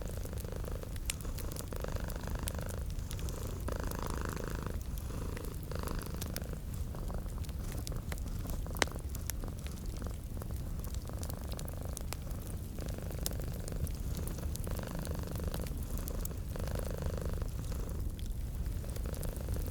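A domestic cat purring steadily: a low rumble that swells and eases every second or two with its breaths. Scattered sharp crackles from a wood fire run through it, one a little louder about halfway.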